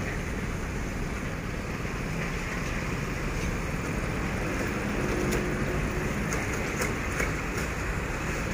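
Diesel locomotive running with a container freight train, a steady engine and wheel rumble, with a few faint clicks in the second half.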